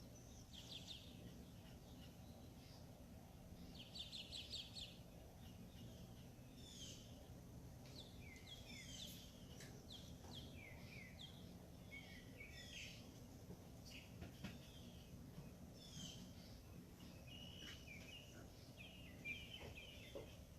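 Faint birdsong: several birds chirping and calling, with a quick trill about four seconds in, over a low steady background hum.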